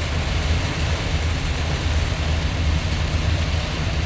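Heavy rain on a moving car at highway speed, heard inside the cabin: a steady hiss of rain and wet tyre spray over a low road rumble.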